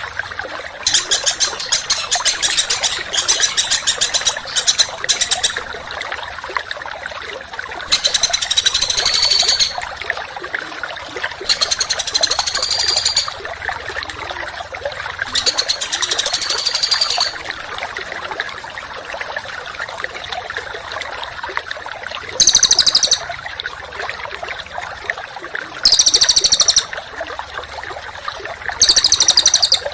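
Cage songbird masteran song: repeated bursts of fast, harsh, high-pitched notes fired in tight phrases of one to two seconds, with pauses between them, over a steady trickling-water hiss.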